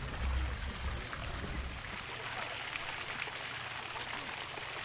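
Water running and splashing, like a small stream or cascade. A low rumble underneath stops about two seconds in.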